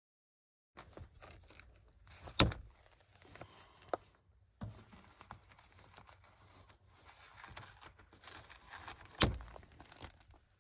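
Rustling and handling noises with small clicks, broken by two sharp knocks, one about two seconds in and one near the end.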